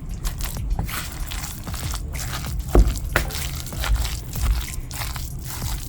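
Chicken salad dressed with mayonnaise being stirred in a bowl: wet squishing with scattered short clicks.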